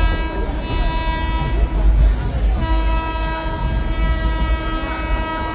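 Train horn held in a long steady blast that breaks off about two seconds in and sounds again about half a second later, over the low rumble of a moving train.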